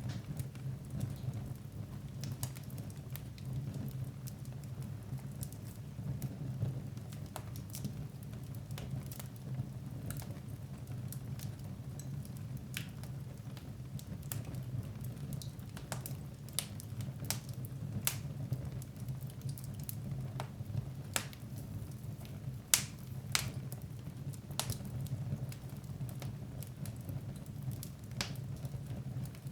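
Wood fire burning in a fireplace, with irregular sharp crackles and pops over a steady low rumble of the flames; one louder pop about three quarters of the way through.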